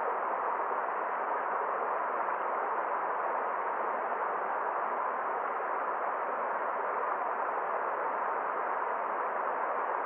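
Forest stream water running in a steady, even rush, with no changes or separate splashes.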